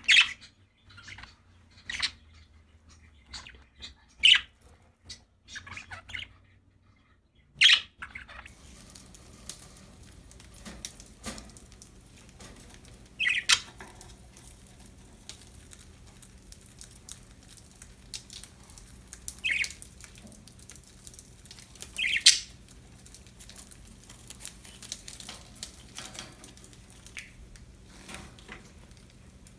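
Budgerigars chirping, with a short loud squawky call every few seconds over softer chattering. About eight seconds in, a low steady hum comes in underneath.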